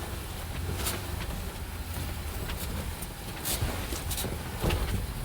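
Off-road vehicle driving a rough trail, heard from inside: a steady low engine and drivetrain rumble with a few sharp knocks and rattles from the bumps.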